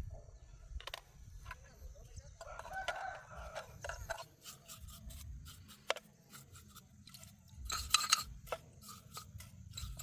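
A rooster crowing once, a drawn-out call about two and a half seconds in. Scattered clicks and knocks run throughout, with a louder clatter near the end.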